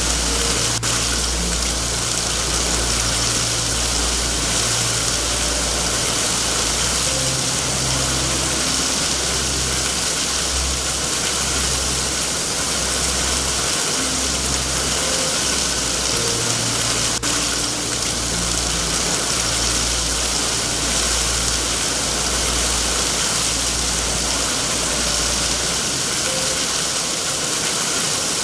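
Steady heavy rain hissing over a low, uneven rumble, with two single sharp pops, one about a second in and one about halfway through, like a fireplace crackling.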